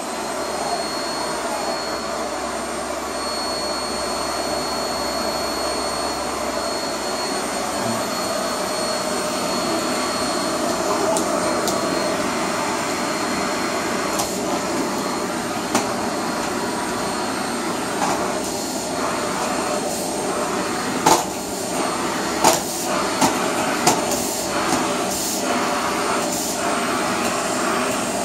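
Vacuum cleaner running steadily, with a thin whine over it for the first several seconds. In the second half a string of sharp knocks and clicks sounds over the motor.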